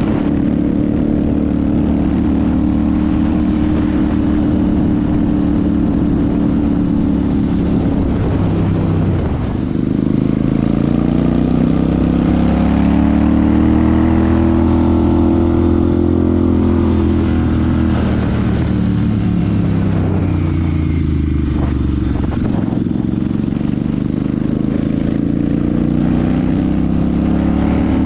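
Royal Enfield Super Meteor 650's parallel-twin engine and exhaust under way, its note rising and falling with the throttle. The pitch drops briefly about a third of the way in, as at a gear change, climbs, sinks slowly again past the middle and picks back up near the end.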